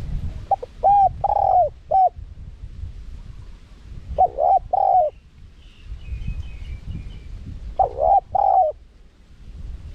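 Spotted dove cooing in three short phrases of a few notes each, every phrase about a second long and a few seconds apart. A small bird twitters faintly between the second and third phrases.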